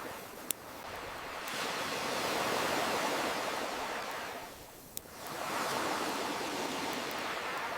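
Sea waves washing in and drawing back, swelling to a peak about two to three seconds in, fading near five seconds, then building again. Two sharp campfire pops cut through, one about half a second in and one about five seconds in.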